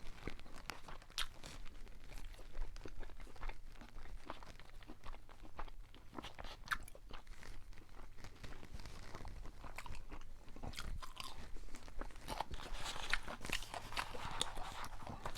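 A person chewing crunchy fried food close to the microphone: irregular crisp crunches and chewing throughout.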